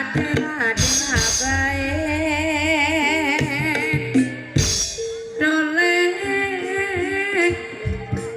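Live ebeg accompaniment music: a singer holding long, wavering notes over drums and percussion, with sharp drum strikes about a second in and again midway.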